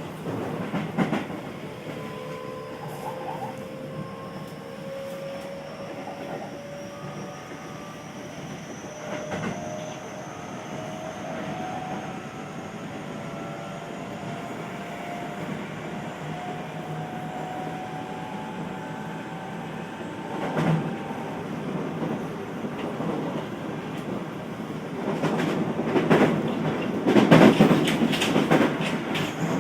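Inside a Keio New 5000-series train car at speed: the Hitachi SiC inverter and traction motors whine, the tone rising steadily as the train gathers speed. Wheels clatter over rail joints and points, loudest near the end.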